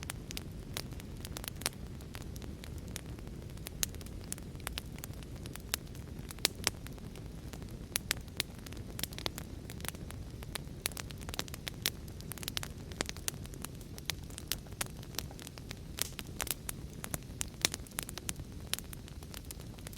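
Wood fire crackling, with sharp irregular pops and snaps over a steady low rushing background of rain and fire.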